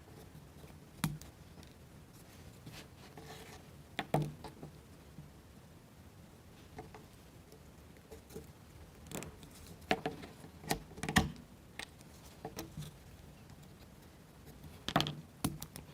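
Light clicks and taps of small plywood model-kit parts being handled and fitted together by hand. They come singly about a second in and around four seconds, bunch up in the middle, and come again near the end.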